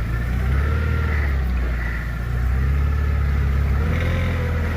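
A motorboat's engine running steadily at cruising speed, a low, even drone.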